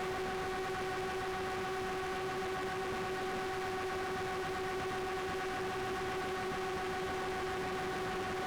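Quadcopter camera drone's propellers and motors humming steadily, one high even tone with overtones over a hiss of air.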